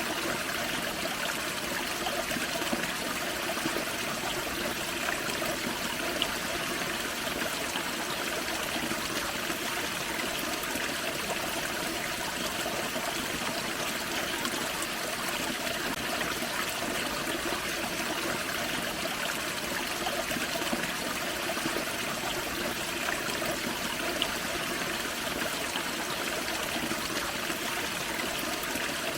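Small forest waterfall and creek, water splashing and trickling over rocks in a steady, unbroken rush.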